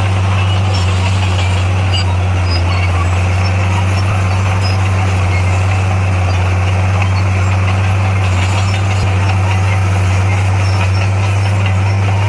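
A bulldozer's diesel engine running steadily with a deep, even drone.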